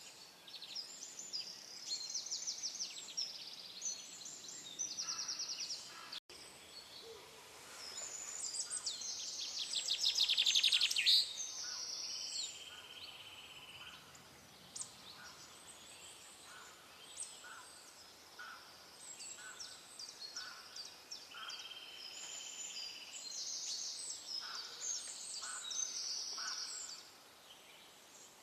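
Several songbirds singing and calling over each other: short high chirps and fast trills, with the loudest, rapid trill about ten seconds in. A brief gap in the sound falls about six seconds in.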